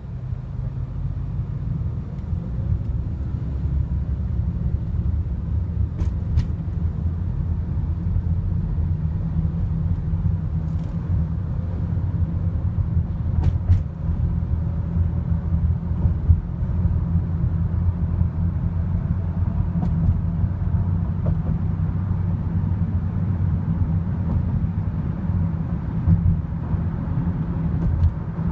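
Steady low rumble of a BNSF freight grain train rolling past, with a few sharp clanks.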